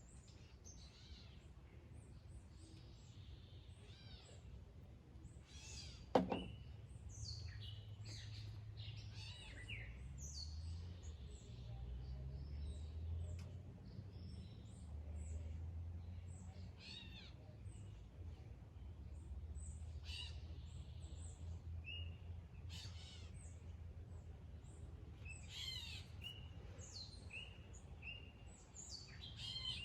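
Several birds chirping and calling in short, scattered phrases over a low steady rumble, with one sharp click about six seconds in.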